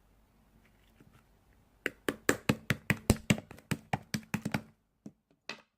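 A quick run of sharp knocks or taps, about five a second, starting about two seconds in, followed by two last single knocks near the end.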